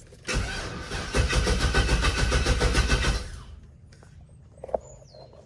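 Starter cranking the 5.3 V8 for about three seconds with an even pulsing beat, then stopping without the engine catching. It is a no-start that the owner ties to the PCM not being found, a problem that in the past came from a bad fuse or relay.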